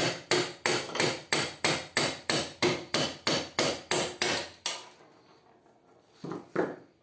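A rapid, even series of light knocks, about three a second, tapping the shaft end of a Fujitsu air-conditioner evaporator fan motor, with a wooden piece taking the blows, to drive its seized, rusted bearing off the shaft. The knocks stop shortly before five seconds in, and a couple of softer knocks follow.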